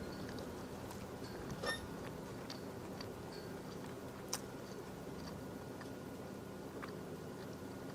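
Quiet chewing as a green chile cheeseburger is eaten, over a faint steady hum, with a few light clicks and a brief high squeak about a second and a half in.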